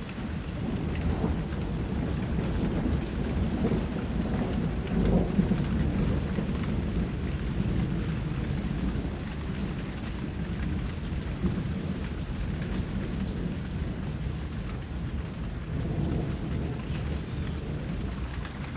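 Steady rain falling, with low rolling thunder that swells during the first half and again near the end.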